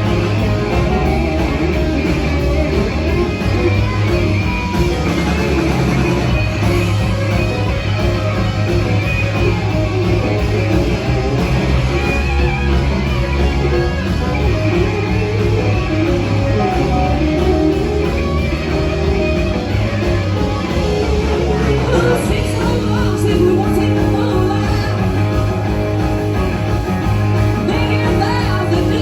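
Rock and roll band playing, with guitar and vocals over a steady beat.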